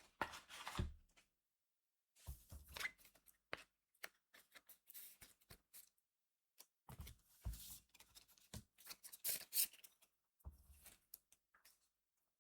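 Trading cards being handled: short bursts of crisp rustling and flicking as cards slide and slap against each other, in several clusters with brief pauses between.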